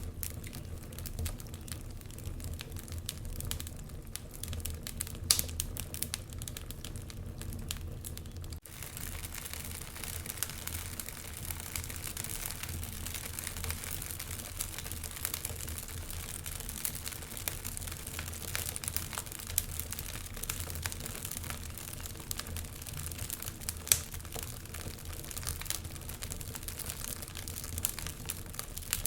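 Wood fire burning in a fireplace, crackling steadily with many small snaps over a low rumble, and a louder pop about five seconds in and another near the end. The sound drops out for an instant about eight seconds in and comes back with more hiss.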